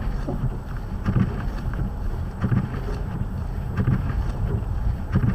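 Car cabin noise while driving through snow: a steady low rumble of engine and tyres, with a swishing sound repeating about every second and a half.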